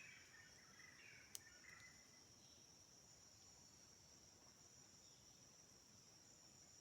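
Faint, steady high-pitched chorus of forest insects such as crickets, with a few softer calls in the first two seconds and a single sharp click about a second and a half in.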